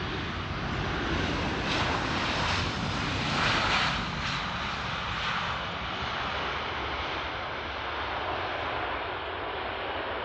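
Airbus A320 airliner arriving on the runway: jet engine noise as a steady rush, swelling for a few seconds early on and then settling.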